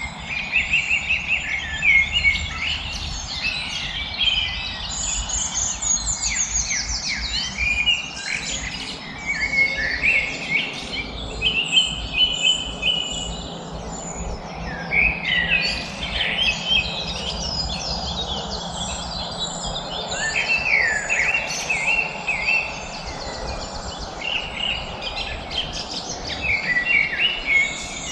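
Many small birds chirping and singing at once in a dense, overlapping chorus of quick high chirps and trills, over a faint low background noise.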